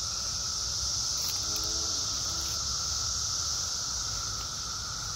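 Brood X periodical cicadas in a massed chorus: a constant high-pitched drone with a steady lower hum beneath it.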